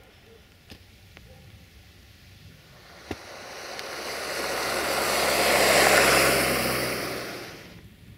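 Diesel train passing: a low engine hum and a rushing noise swell up from about three seconds in, peak near six seconds and die away quickly near the end. A single sharp click comes just as it begins to build.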